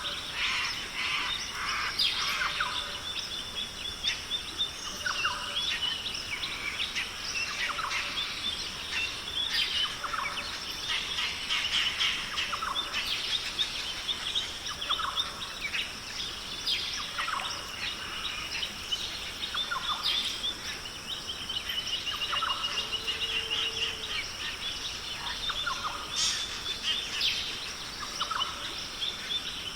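Forest chorus of many birds calling and chirping over a steady high insect drone, with a short low note repeating about every two and a half seconds.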